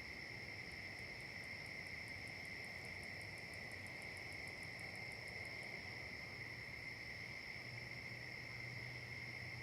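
Steady chorus of trilling insects such as crickets, with a second insect adding a fast, high ticking of about seven pulses a second for some five seconds.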